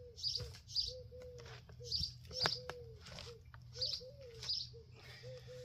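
A bird calling over and over in short low notes, with other bird sounds around it. About two seconds in come a couple of sharp wooden knocks and scraping as a pine log is dragged out of a pile.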